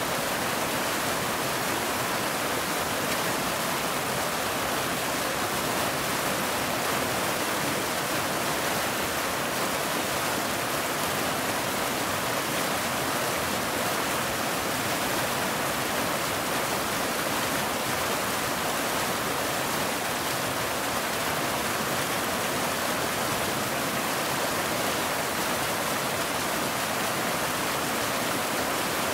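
Waterfall: falling water rushing with a steady, unchanging hiss, no single splashes or other sounds standing out.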